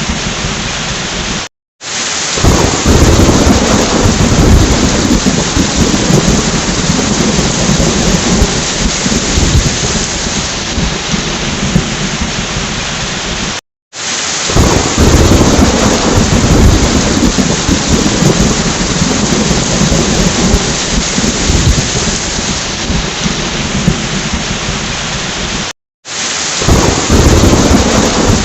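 Steady heavy rain with rumbling thunder, played as a loop: the sound cuts out briefly three times, about every twelve seconds, and a deeper rumble of thunder swells just after each restart.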